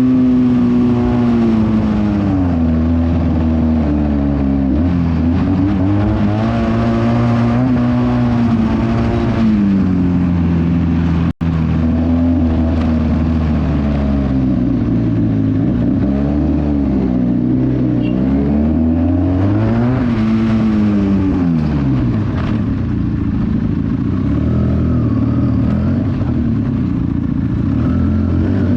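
Benelli 300 parallel-twin motorcycle engine with a loud exhaust, running on the move, its note rising and falling again and again as the throttle opens and closes. The sound drops out for an instant about eleven seconds in.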